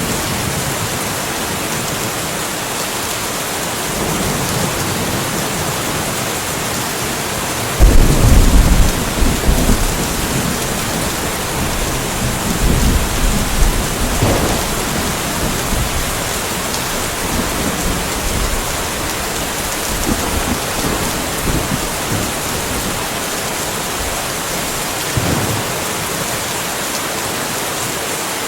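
Steady rainfall hiss with rolls of thunder: a loud low rumble breaks in about eight seconds in and trails off over several seconds, followed by fainter rumbles.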